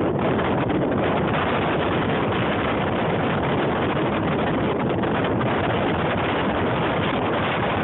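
Steady, loud rushing noise that does not let up.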